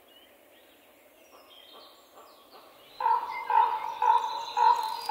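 Quiet forest ambience with faint bird chirps, then from about three seconds in a bird calls loudly in a quick series of repeated notes.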